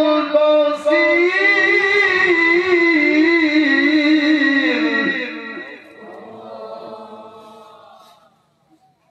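Male Quran reciter's voice in melodic tilawah, holding a long ornamented phrase with a wavering pitch. About five seconds in, the phrase fades and trails off in reverberation, dying away near the end.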